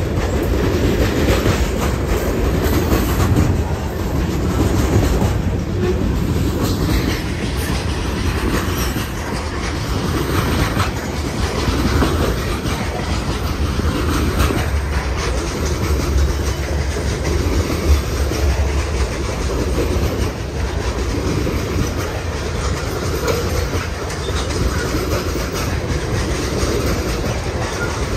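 Loaded covered hopper cars of a grain train rolling slowly past, a steady rumble of steel wheels on the rails.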